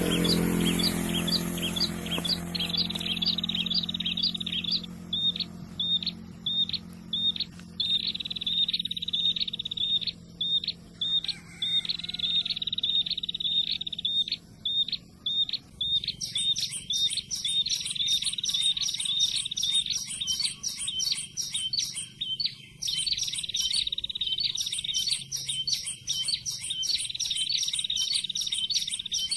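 Bar-winged prinia (prenjak) song: long runs of rapid, high repeated chirps, broken by short pauses. About halfway through, a second, higher and faster trill joins in over a faint low hum.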